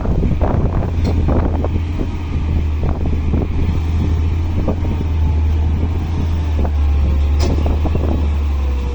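Heavy diesel machinery running steadily with a deep hum, with scattered knocks and clunks as fill soil is loaded into a dump truck.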